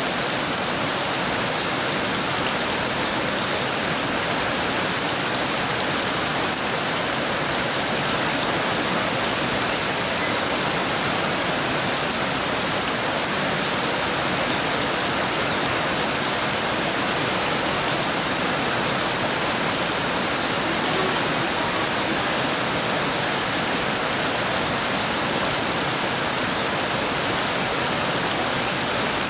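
Heavy rain falling steadily: an even hiss of rain with a fine patter of drops on surfaces.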